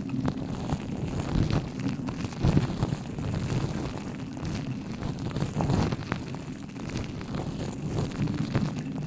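Blowing and wet mouth sounds right on the microphone, a steady rough rush with irregular crackles.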